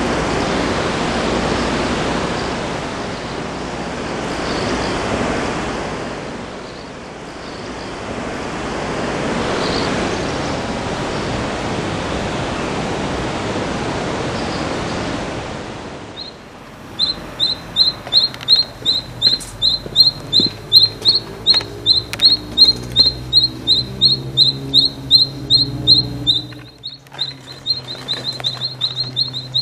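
A steady rushing noise with faint high bird chirps over it. About two-thirds of the way through, a wild bird starts calling a fast, even run of short high chirps, about three to four a second.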